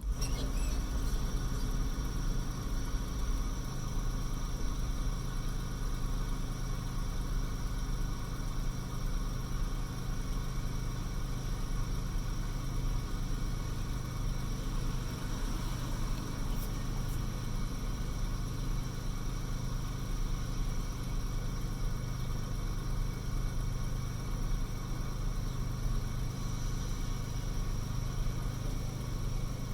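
Buick LeSabre's 3.8-litre V6 idling steadily with its newly fitted catalytic converter, left running to warm up.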